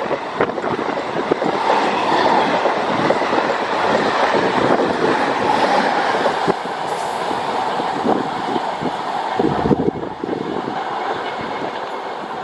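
Long electric MEMU train running through at speed without stopping, its wheels clattering steadily over the rail joints.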